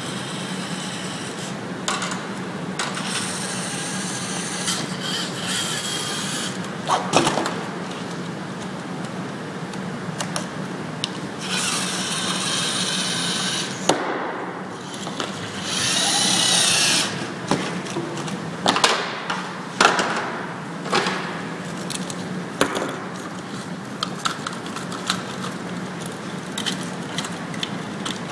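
LEGO Mindstorms EV3 robot's motors whirring in repeated stretches, the longest and loudest in the middle, with scattered clicks and knocks from its LEGO parts.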